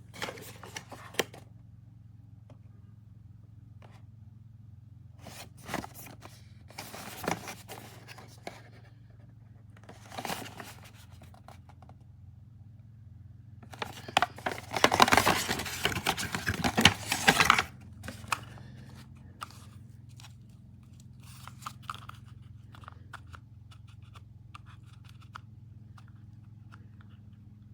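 Packaging being handled and torn open: scattered rustles and scrapes, then a louder stretch of tearing and crinkling for a few seconds about halfway through. A steady low hum runs underneath.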